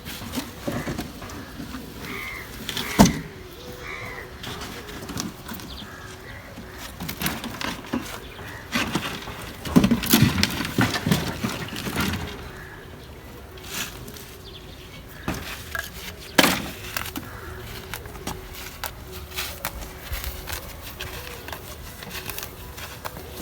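Irregular knocks and clattering, with sharp bangs about 3 and 16 seconds in and a busier cluster around 10 seconds, over a faint steady hum.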